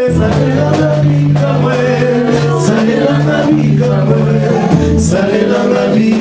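Live gospel worship music: voices singing over a band with a steady bass line.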